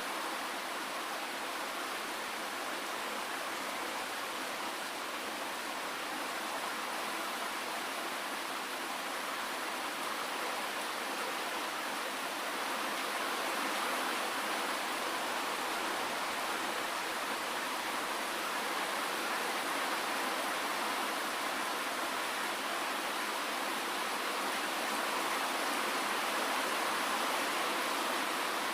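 Steady rainfall: an even, unbroken hiss with no single drops standing out, growing slightly louder about halfway through.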